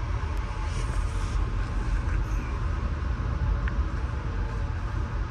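Steady running rumble of a moving passenger train, heard from inside a Budd-built stainless steel coach.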